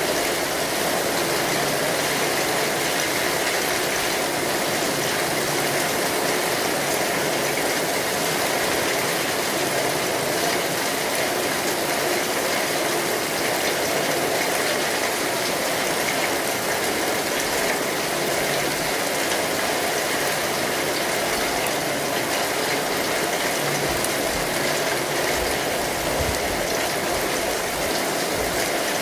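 Steady rain falling on an umbrella.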